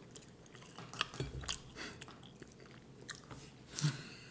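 Close-miked chewing and mouth sounds of people eating a cooked breakfast, with scattered soft clicks and smacks.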